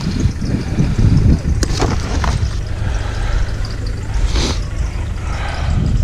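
Vehicle driving: a steady low rumble of engine and road, with a few short clicks and a brief hiss about four seconds in.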